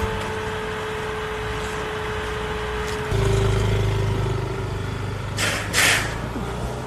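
A motor vehicle engine running steadily. About three seconds in its note drops a little and gets louder, and two short hisses come near the end.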